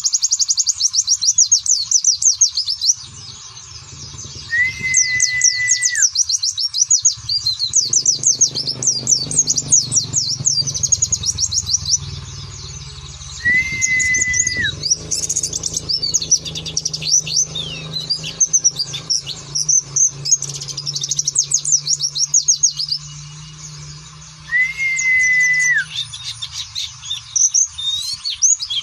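White-eye (pleci) twittering and singing in fast runs of high chirps. Three times, a longer level whistle that drops at its end sounds under the chirping, and a low hum runs through the middle.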